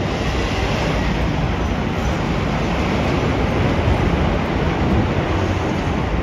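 A train running past: a steady, continuous rumble of wheels on the rails, with no distinct beats or horn.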